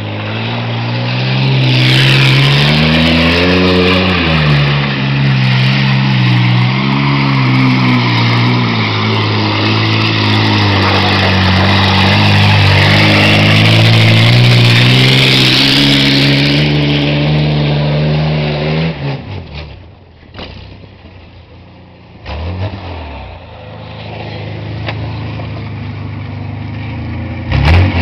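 Ford pickup truck's engine revving hard, pitch swinging up and down, while a loud rush of noise from the wheels churning through mud runs over it. About nineteen seconds in, the revs drop off and it goes quieter, with a few knocks and the engine picking up again near the end.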